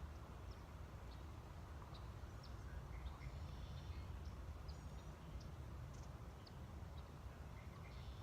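Scattered faint high chirps of small birds over a steady low background rumble.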